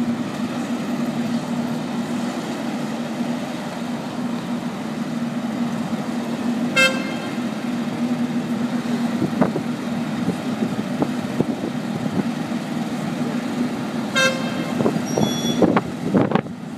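A vehicle engine running steadily, with two short horn toots about seven seconds apart and a few sharp knocks near the end.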